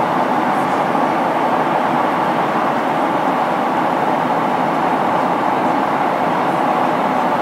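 Steady cabin noise of an airliner in flight: the even roar of the engines and the air rushing past the fuselage, heard inside the passenger cabin.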